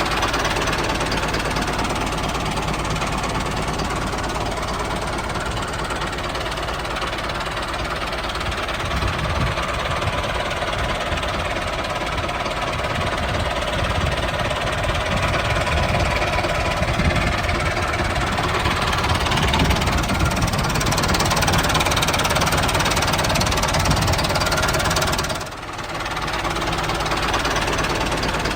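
Small engine of a handmade mini tractor running steadily with a rapid knocking beat, dipping briefly about 25 seconds in and then picking up again.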